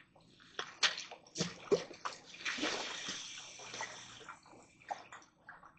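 Water sloshing and splashing, with a few sharp knocks and clicks, and a longer rush of water about two to four seconds in.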